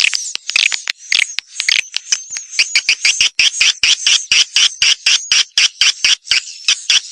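Swiftlet lure call: a recorded swiftlet twittering track of rapid, short, high chirps and clicks, about six a second, played to call wild swiftlets into a nesting house.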